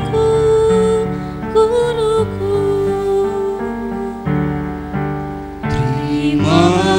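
A choir singing a slow, tender song over keyboard accompaniment. It holds out the end of a line in long chords, then starts the next line near the end.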